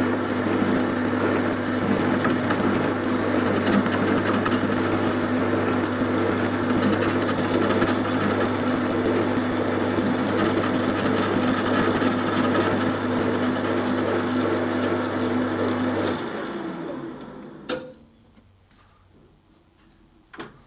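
Metal-turning lathe running with a steady motor hum while the tool faces off the end of a rough cast collar held in a four-jaw chuck, the cutting noise riding over the hum. About 16 seconds in the lathe is switched off and runs down, followed by a single click.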